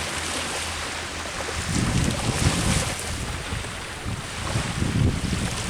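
Sea waves washing onto the shore with a steady hiss, and wind gusting on the microphone in low rumbling surges about two seconds in and again near the end.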